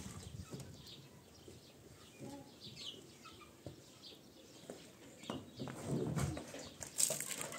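Faint bird chirps, with a few sharp knocks near the end.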